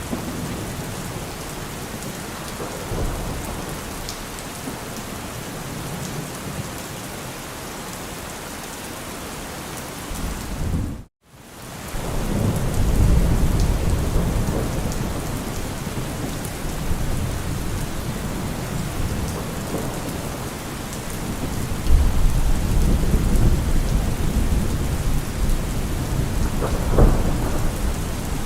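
Heavy rain drumming on a car roof with rolling thunder. The sound cuts out briefly about eleven seconds in, then deep thunder rumbles swell up twice.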